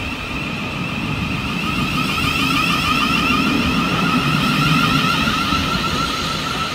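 Electric passenger train running, a steady high whine in two wavering tones over a low rumble, a little louder through the middle.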